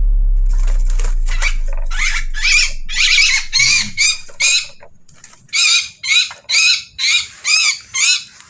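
A bird giving a rapid series of harsh, rasping squawks, about two a second, with a short pause midway. A low rumble fades out over the first two seconds.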